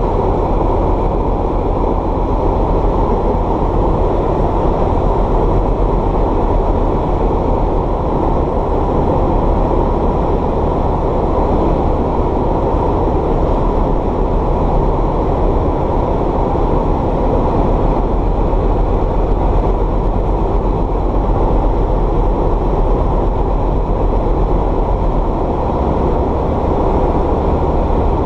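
Light aircraft's piston engine and propeller heard from inside the cockpit, a loud steady drone.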